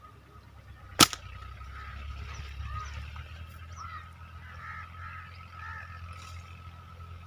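A single sharp snap about a second in, typical of a slingshot's rubber bands being released on a shot, followed by birds calling and chirping.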